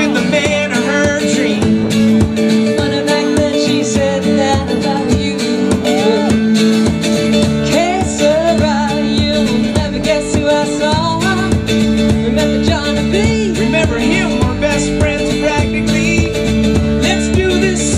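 Live pop-folk duet played on acoustic guitar, with a singing voice over the strummed chords.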